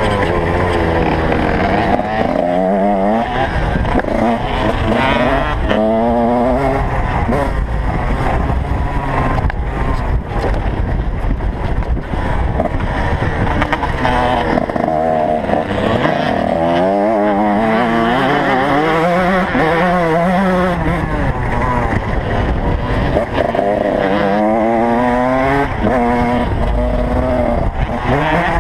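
Motocross bikes' engines revving hard and easing off as they race, the pitch climbing and falling over and over, with several engines overlapping at times.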